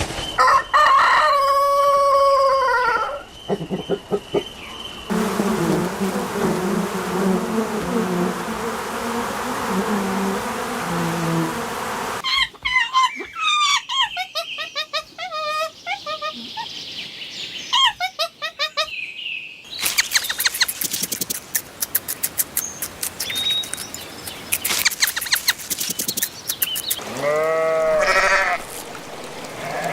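A string of different animal calls spliced one after another: a long falling call, a stretch of low steady tones, a run of chirps, a spell of rapid clicking, and animal bleating near the end.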